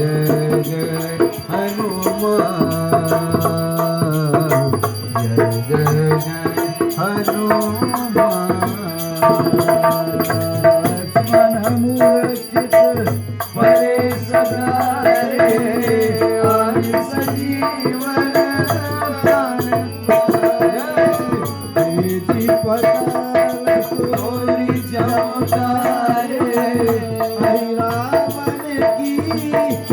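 Hindu arti devotional music: a sustained melody over a steady hand-drum rhythm, with shaken rattling percussion.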